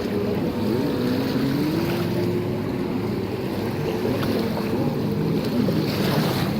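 Several racing jet skis running on the water, their engine tones rising and falling at different pitches as they throttle up and back.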